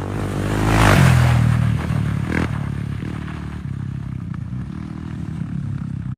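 Small off-road racing engines running. One machine passes close and loud about a second in, then the engine sound carries on steadily, quieter, before cutting off suddenly at the end.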